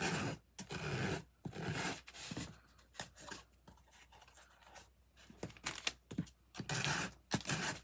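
Sandpaper rubbing off the excess edge of heavy textured paper: a run of short scratchy strokes, louder in the first two seconds and again near the end, with lighter scratching in between.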